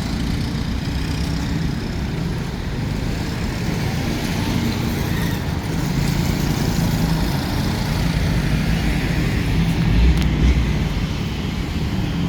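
Street traffic: motor vehicles running and passing, with a louder low rumble about ten seconds in.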